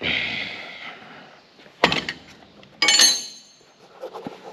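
A fading hiss, then a sharp knock about two seconds in, followed a second later by a short metallic clatter that rings high.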